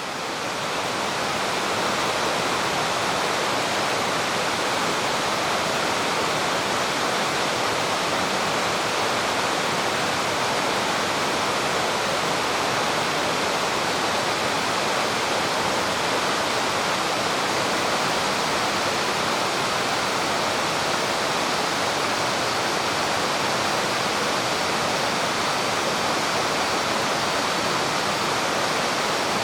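Spring-fed mountain stream flowing, a steady, even rush of water that fades in over the first couple of seconds.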